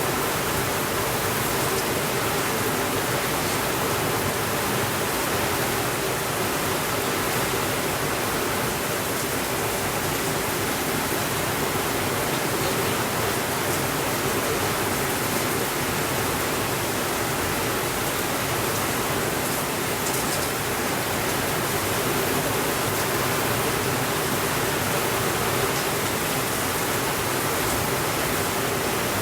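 Steady rainfall, an even unbroken hiss that holds the same level throughout.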